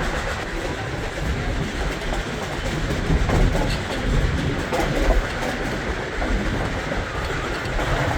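Durango & Silverton narrow-gauge train running on the rails: a steady low rumble with the clatter of the cars' wheels over the track.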